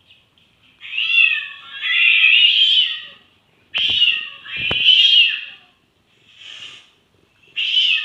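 Domestic cat meowing in long, drawn-out calls, about four of them, the last one faint. Two short knocks come in the middle.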